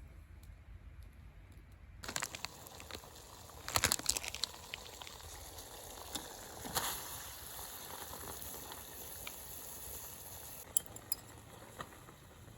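Campfire cooking sounds: a steady hiss with scattered sharp clicks and clinks, a cluster of them about four seconds in.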